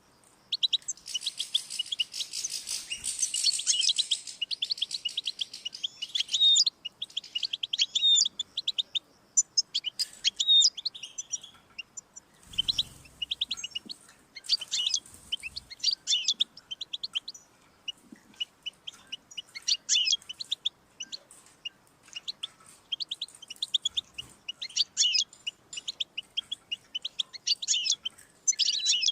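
European goldfinch singing: long runs of fast, twittering, tinkling notes broken by short pauses. A brief low bump about twelve seconds in.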